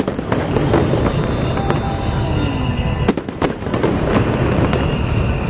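Aerial fireworks bursting in a rapid, irregular string of bangs and crackles, with music playing underneath.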